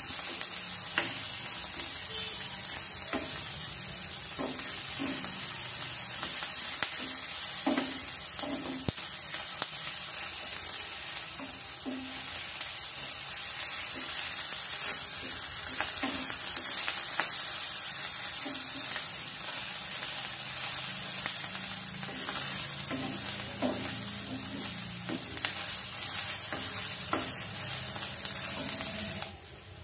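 Onions with ginger and garlic paste frying in hot oil: a steady sizzle, with a wooden spoon stirring and scraping in the pan in scattered short knocks.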